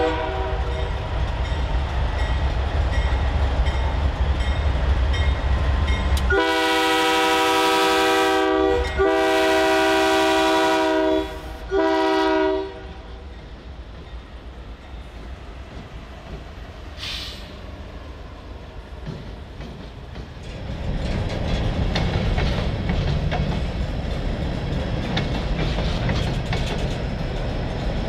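A CN diesel freight locomotive passes close by with a steady engine rumble. About six seconds in it sounds its multi-note chime horn in three blasts: two long and one short. Hopper cars then roll past with wheel clatter, which grows louder again in the last third.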